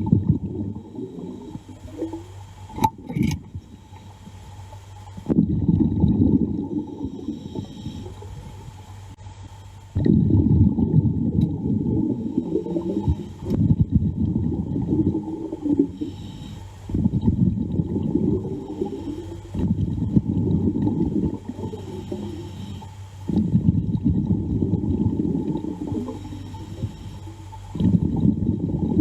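Underwater, a diver's exhaled breath bubbling out in repeated bursts of two to three seconds, with short pauses between breaths, over a steady low hum.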